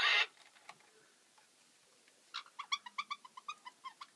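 Caique parrot calls: a short harsh screech at the very start, then after a pause a quick run of short, squeaky, meow-like chirps.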